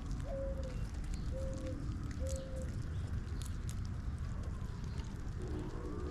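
Dove cooing: three or four short, low, even notes in the first half, and another low cooing phrase near the end, over a steady low background rumble.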